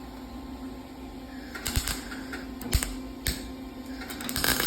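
Short, irregular bursts of crackling and popping from a 110-volt wire-feed (MIG) welder tacking over a hole in sheet steel, with a steady low hum underneath. The crackles come in small clusters, the densest near the end.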